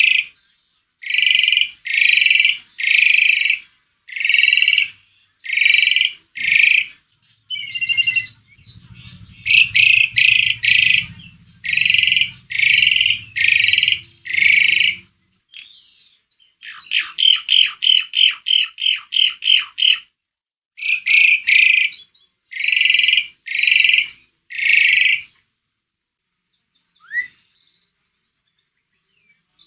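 Asian pied starling (jalak suren) in full, active song: loud, harsh calls about half a second long, repeated roughly once a second. About two-thirds through comes a fast run of about ten short notes, and the song pauses near the end.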